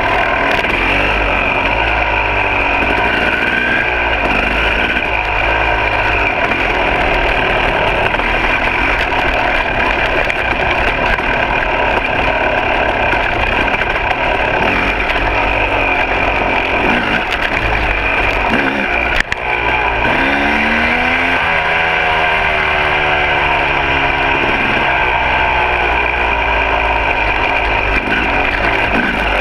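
Two-stroke dirt bike engine running continuously over trail riding, its pitch rising and falling as the throttle is opened and closed, most plainly about two-thirds of the way through. A single sharp click cuts in just after the middle.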